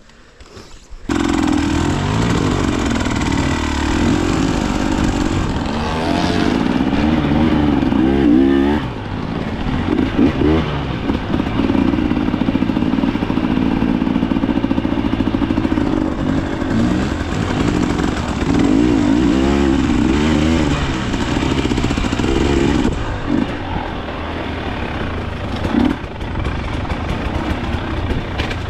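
Dirt bike engine running under load on a trail ride, the revs rising and falling over and over as the throttle is worked. It starts about a second in.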